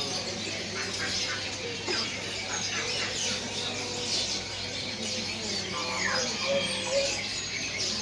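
Many caged songbirds chirping and squawking at once in a bird market, a dense overlapping chatter of short calls, with faint voices behind.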